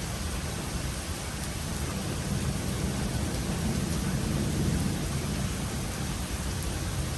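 Steady rain, with a low rumble of thunder underneath that swells about four seconds in.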